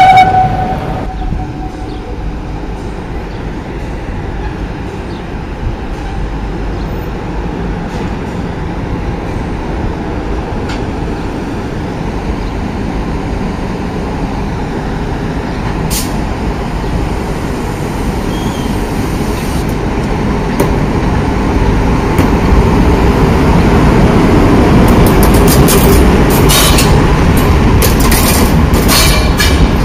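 FS Class E.444 electric locomotive hauling Intercity coaches along a station platform, a steady rumble that grows louder as it draws near, with sharp wheel clicks near the end. A brief tone sounds at the very start.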